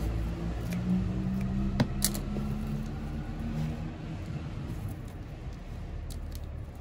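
A motor vehicle's engine runs with a steady low hum that fades away over the first few seconds, with a couple of sharp clicks about two seconds in.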